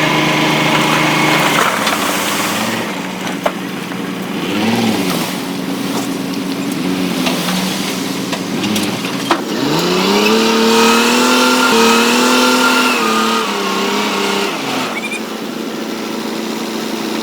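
Heavy earthmoving machine's diesel engine running, revving up about ten seconds in, holding high for a few seconds, then dropping back, with a couple of sharp knocks along the way.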